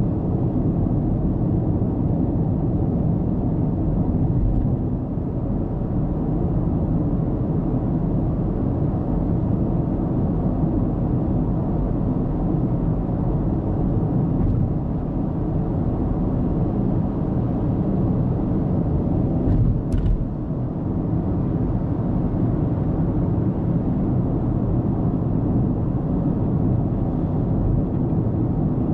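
Steady road noise of a car driving at speed, a low rumble of tyres and engine, with one short sharp click about twenty seconds in.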